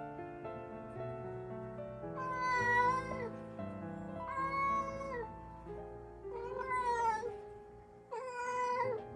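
Domestic cat meowing four times, each meow long and drawn out, about a second each and two seconds apart, over soft piano music.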